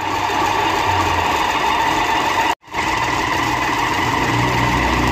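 Hino 500 truck's diesel engine idling with the clutch pedal held down, the clutch giving a loud, steady whirring noise with a high whine. This is the noise of a broken clutch release bearing and badly worn clutch fingers.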